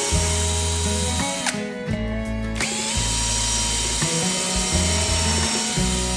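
A power tool, likely a drill, running with a steady whine. It stops about a second and a half in and spins back up about a second later, over background music.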